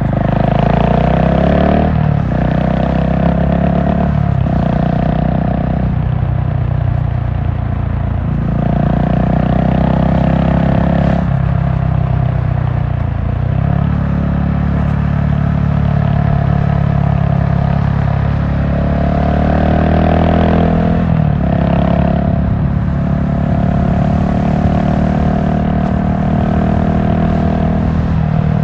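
GasGas SM700 supermoto's single-cylinder four-stroke engine under way. The revs climb and then drop sharply at each gear change, several times over, with steadier cruising stretches between.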